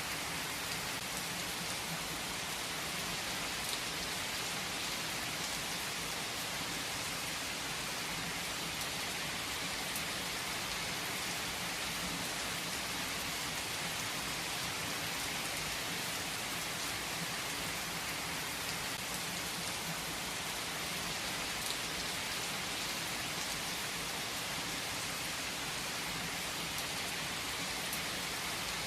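Steady, even rain falling on a surface, with scattered individual drops ticking.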